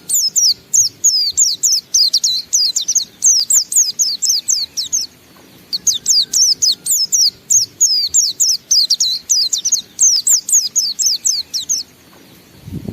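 White-eye (pleci) singing its long, fast ngalas song: a rapid run of high, sharply dropping chirps. It pauses briefly about five seconds in and stops about a second before the end.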